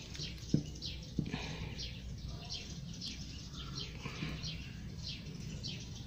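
Small birds chirping in the background, a steady run of short, quick downward chirps, with two light clicks about half a second and just over a second in.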